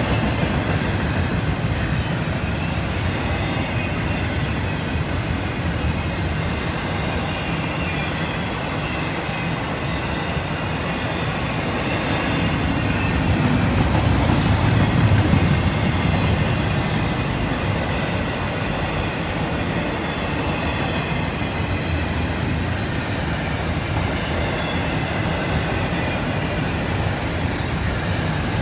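Freight cars of a CSX intermodal train rolling past: a steady rumble of steel wheels on rail with a thin, high-pitched wheel squeal running through it. It grows a little louder about halfway, and a few sharp clicks come near the end.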